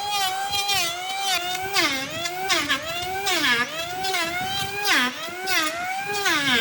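Electric power tool motor whining, its pitch dropping repeatedly and climbing back as the tool is pressed into wood and eased off.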